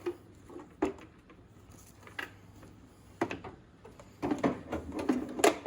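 Scattered clicks and light knocks of the window glass and door parts being handled and fitted inside a car door, becoming busier near the end.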